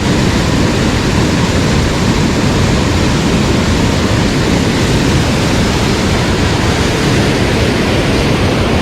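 Rushing water of a mountain stream, a steady, loud, even rush with no breaks.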